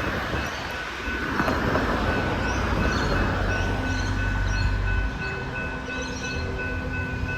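Level crossing warning bell ringing steadily with a high electronic tone. From about three seconds in, a low rumble and steady lower tones build as an electric suburban train approaches the crossing.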